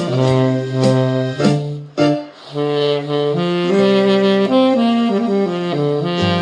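Saxophone playing a slow, sustained melody over a musical accompaniment, with a brief break between phrases about two seconds in.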